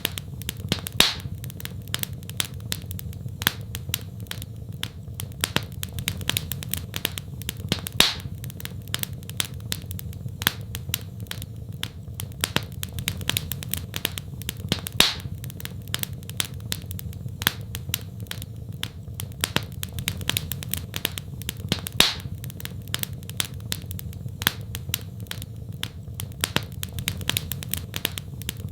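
Wood fire crackling in a fireplace: a dense run of small snaps with a louder pop about every seven seconds, over a steady low rumble.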